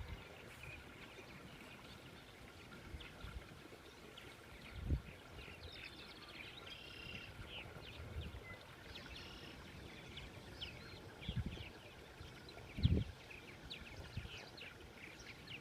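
Floodwater rushing in a faint steady wash, with small birds chirping over it throughout. A few brief low thumps come through, about five seconds in and twice near the end.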